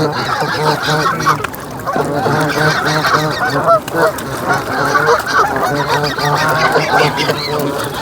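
A large flock of Canada geese honking continuously, with many calls overlapping one another without a pause.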